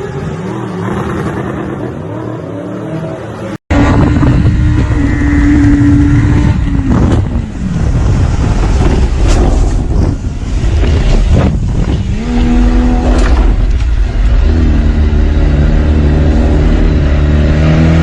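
A quieter stretch breaks off abruptly about three and a half seconds in, and a loud vehicle engine takes over, revving and accelerating. Near the end its pitch climbs steadily as it gathers speed.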